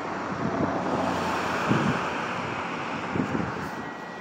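Freight train cars rolling past, a steady rushing noise of wheels on rail, with wind on the microphone adding a few brief low gusts.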